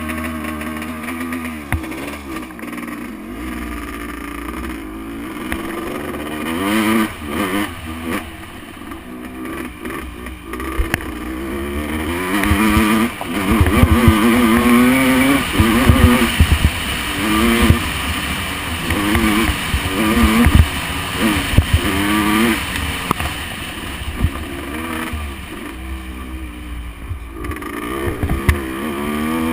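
Motocross bike engine revving up and easing off over and over as it is ridden, with occasional sharp knocks. It is loudest through the middle stretch.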